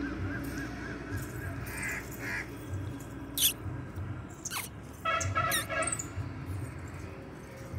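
Birds calling outdoors: a wavering call at first, then two sharp, quick downward-sweeping calls, and a short harsh chattering call about five seconds in.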